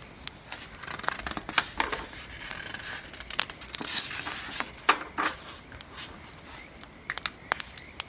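Pen scratching and paper rustling at a desk, mixed with scattered sharp crackles and pops of a wood fire.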